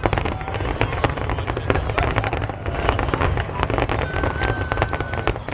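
Fireworks display: a dense, rapid run of crackles and pops over a steady low rumble of bursts, with a steady high whistle lasting about a second near the end.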